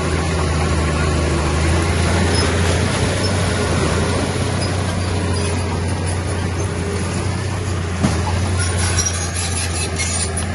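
Diesel engine of heavy earthmoving machinery running steadily under work, with one short sharp knock about eight seconds in.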